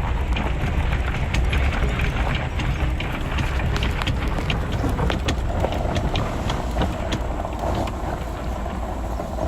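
Pickup truck driving slowly on a rough property track with a boat trailer in tow: a steady low engine and road rumble with frequent small clicks and rattles throughout.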